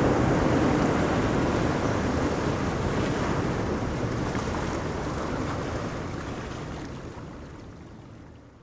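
Ocean surf washing onto a beach, a dense rush of water noise that slowly fades out over the last few seconds.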